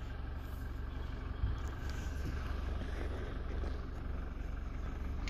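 Low, steady hum of a car engine idling, heard from inside the parked car, with a faint click about one and a half seconds in.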